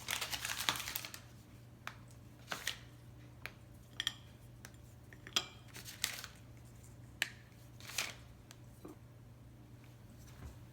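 Chocolate bar being broken into pieces by hand: a second of scratchy, crackling noise at the start, then scattered sharp snaps and clicks, about one a second, as pieces break off and are set down. A steady low hum runs underneath.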